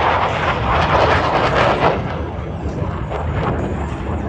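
Jet engine noise from USAF Thunderbirds F-16 fighters making a pass, a broad rushing noise that swells to its loudest about one to two seconds in and then eases off.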